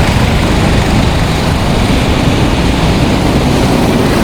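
Go-karts running on a rain-wet track: a loud, steady wash of engine and tyre noise.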